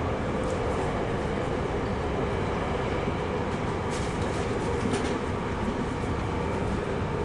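Semboku Rapid Railway electric train running along the line, heard from inside the front of the train: a steady rumble of wheels on rails with a steady hum, and a couple of faint clicks about four and five seconds in.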